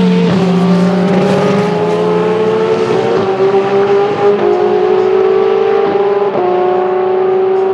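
Race car engine accelerating hard and shifting up through the gears. Its pitch climbs steadily and drops sharply at each of several upshifts.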